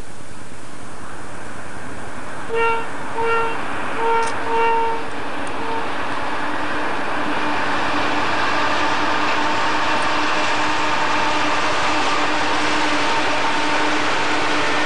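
Union Pacific diesel freight locomotives sound a series of short horn blasts, then pass close by with rising engine and rail noise and a steady whine as the autorack cars roll past.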